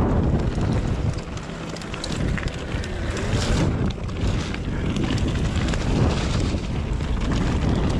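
Wind buffeting a bike-mounted or helmet camera's microphone over the rumble of mountain bike tyres on a rough trail, with scattered rattles and clicks from the bike.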